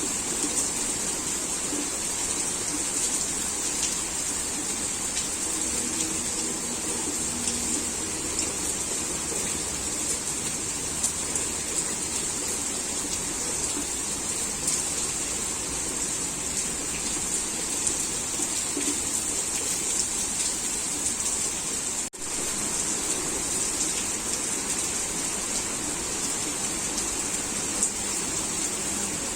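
Heavy rain falling steadily, a dense even hiss of drops on surfaces, with a momentary drop-out about three-quarters of the way through.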